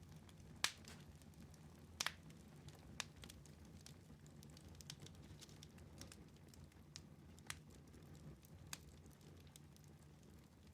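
Wood fire in a fireplace crackling: scattered sharp pops and snaps over a faint low rumble of the flames, the loudest pops about a second in and at about two seconds.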